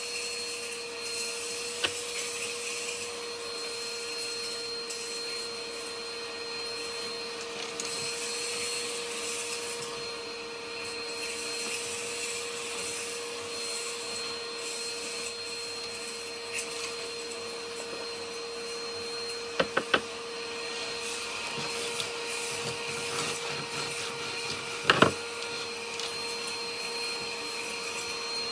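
Vacuum cleaner running steadily, with a few sharp clicks and crunches of debris being sucked up: a single one about 2 seconds in, a quick cluster near two-thirds through and another near the end.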